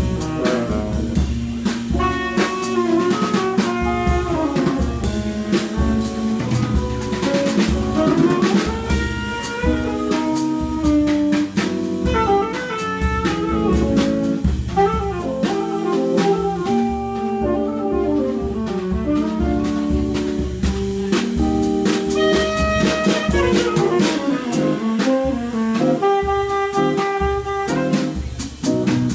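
Live jazz: a tenor saxophone plays a melodic line over a drum kit, the drums keeping up frequent strikes throughout.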